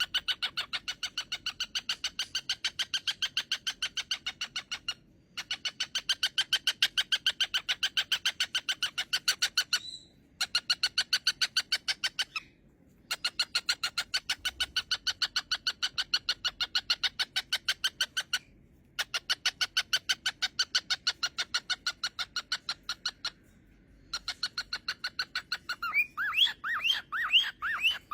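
A bird calling in long trains of rapid, evenly spaced notes, several a second, in bouts of a few seconds with short pauses between them. Near the end the notes turn into quick rising chirps.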